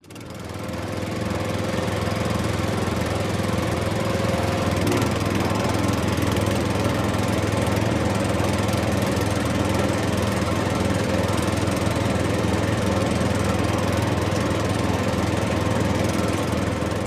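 Vintage tractor engine running steadily, fading in over the first second or so.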